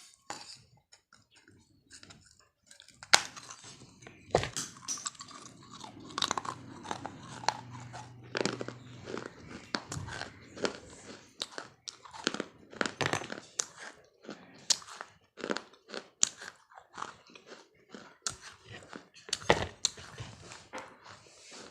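A person chewing and biting crunchy food, with many irregular sharp crunches.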